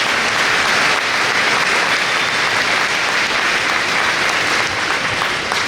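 Large audience applauding, steady clapping throughout that begins to thin out near the end.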